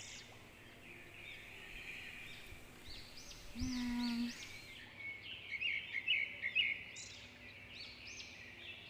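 Small birds chirping over and over in quick arched notes, busiest a little past the middle.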